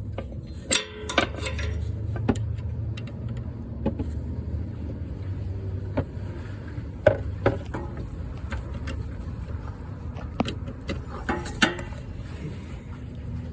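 Metal hand tools clinking and tapping, a dozen or so sharp clicks at irregular moments, over a steady low rumble.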